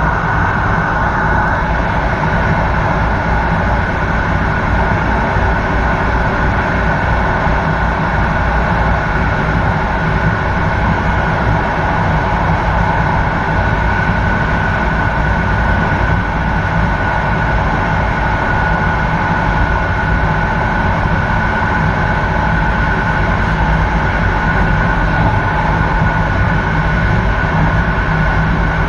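Passenger train running at speed on electrified main-line track, heard from inside at the rear: a steady rumble of wheels on rails with a steady high whine over it.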